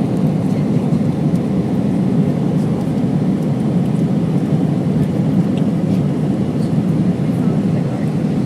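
Steady engine and airflow noise inside the cabin of an Airbus A319 airliner in flight, a loud, even rumble.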